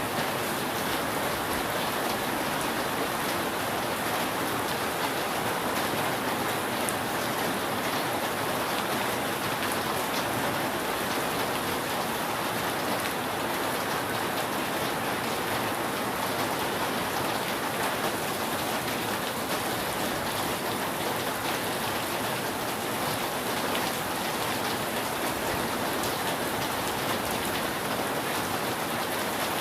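Steady rain falling on a roof: an even hiss with scattered drop ticks, no thunder.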